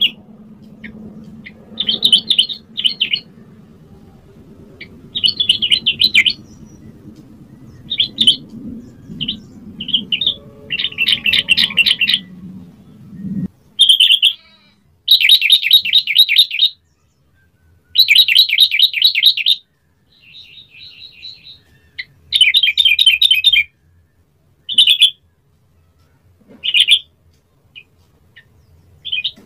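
Yellow-vented bulbul singing in short, bubbly bursts of rapid notes, separated by pauses, some phrases running on for a second or two. A low background rumble under the song stops abruptly about halfway through.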